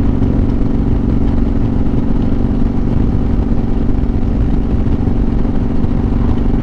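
Motorcycle engine running at a steady cruising speed, its pitch holding level, with wind rushing over the helmet-mounted microphone.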